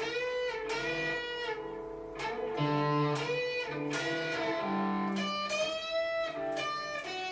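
Electric guitar playing a slow solo line of sustained single notes, several of them bent up in pitch: a learner practising string bends.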